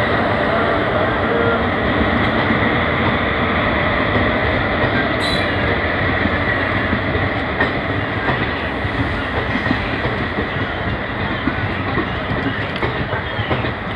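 Passenger train coaches rolling past on the adjacent track: a steady, loud rumble and clatter of steel wheels on the rails, with one sharp clank about five seconds in.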